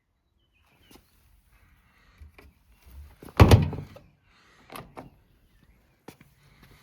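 Beko washing machine's door shut with a loud thud about three and a half seconds in, among lighter clicks and knocks from the machine being handled.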